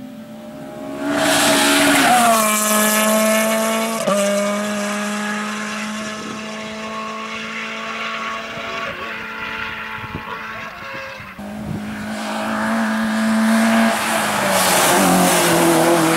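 Rally car engines running hard at high, nearly steady revs as the cars pass on a stage, in a few clips cut together. One engine holds its note for about ten seconds with a brief drop in pitch a couple of seconds in, and after a cut another car comes up loud near the end.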